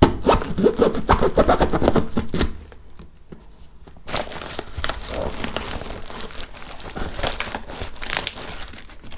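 Packaging being torn and crumpled as a tightly packed parcel is forced open, with a short lull about two and a half seconds in before the tearing and crinkling start again.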